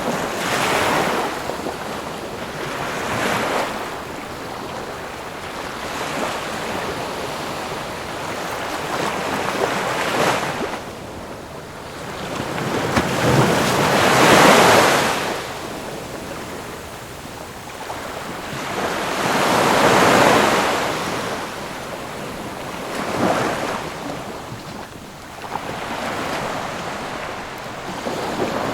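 Ocean waves breaking on a shore, each surge of surf swelling and washing back every few seconds, with the largest breakers about fourteen and twenty seconds in.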